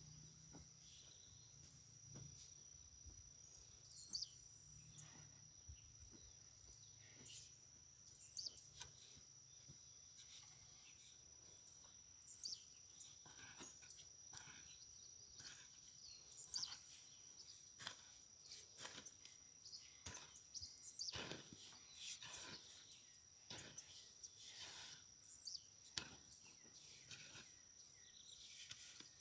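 A steady, high-pitched insect trill runs throughout, with short swooping bird calls every few seconds. Faint scattered clicks and scrapes come in the second half.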